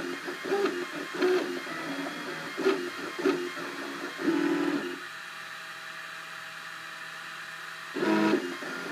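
Cubify 3D printer's stepper motors whining in short pitched bursts that shift in pitch as the print head moves. About five seconds in the movement stops, leaving only a steady faint hum for about three seconds, then the motors start again near the end.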